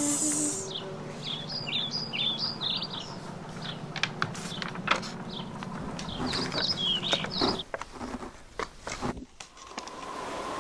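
Small birds chirping in short, quick runs of notes, two spells of them, over clicks and rustles of paper and card being handled as cut-out puppets and scenery are moved.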